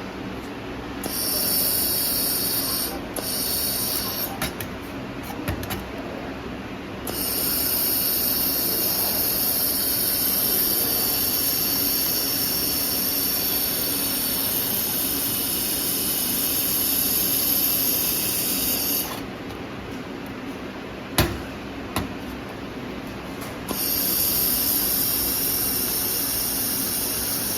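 Laser welding machine working on stainless steel: a steady hum underneath, with long spells of high hissing that start and stop several times, and a sharp click about twenty-one seconds in.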